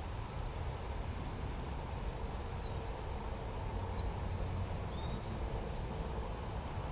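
Steady outdoor background noise with a low rumble, and two faint short bird chirps, about two and a half seconds apart.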